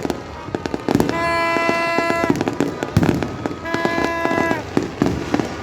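Fireworks display: a dense run of bangs and crackling bursts throughout. Over them a steady horn-like tone sounds twice, each time for about a second.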